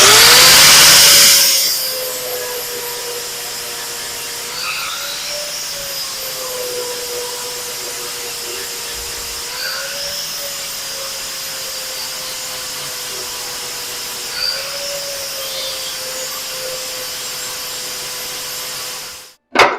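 Hand grinder grinding down a metal suspension sleeve fitted in the car frame. It makes a steady high whine with a loud hiss for the first second and a half, its pitch lifts briefly three times, and it cuts off just before the end.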